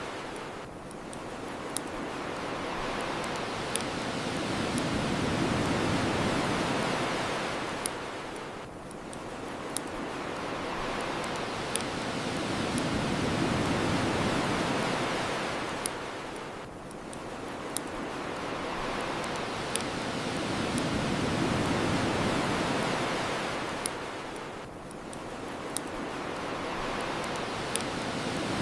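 Ocean waves washing onto a shore, the surf swelling and falling back in a slow cycle of about eight seconds, with sharp pops from a crackling bonfire about every two seconds.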